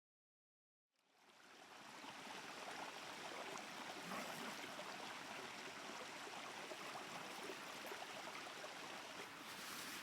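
Clear, shallow stream flowing and babbling steadily, fading in after about a second of silence.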